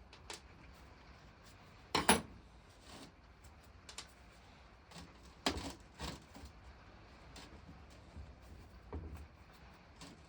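Scattered metal clinks and knocks of tools and parts being handled while a water pump is dismantled, the loudest a quick double knock about two seconds in and another about five and a half seconds in.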